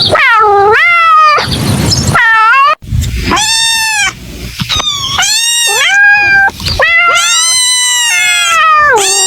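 A kitten meowing loudly over and over: about seven separate meows, each rising and falling in pitch, the last one drawn out for about two seconds.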